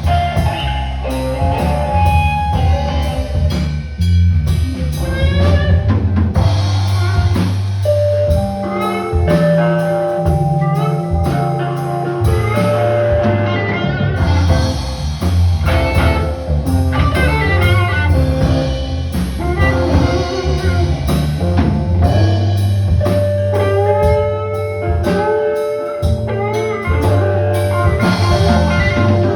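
Live band playing an instrumental blues passage: guitar with bending, sliding notes over a drum kit and a steady low end.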